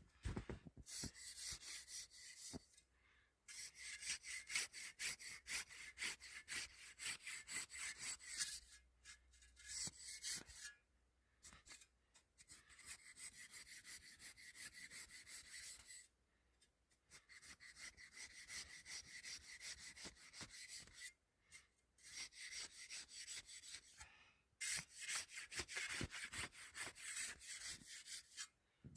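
Saw rasping through hard, icy snow in several bouts of quick strokes, with short pauses between the bouts.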